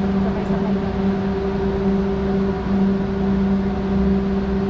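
Aerial tram running: a steady mechanical hum with a low rumble beneath it, holding one pitch with no change.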